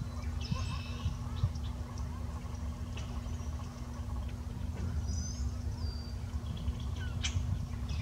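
Birds calling over a steady low rumble and hum: a call about half a second in, short high chirps around five seconds in, and a sharp tick near the end.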